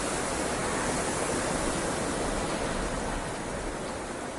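Steady, even rushing noise with no distinct events, fading slowly near the end.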